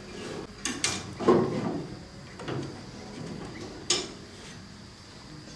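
A handful of separate sharp knocks and clatters of hard objects, the loudest about a second in and the last near four seconds.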